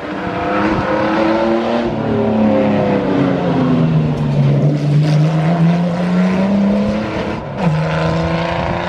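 Car engine running hard as the car drives past, its pitch sliding down and then climbing again, with a short break in the note about seven and a half seconds in before it settles on a lower, steady note.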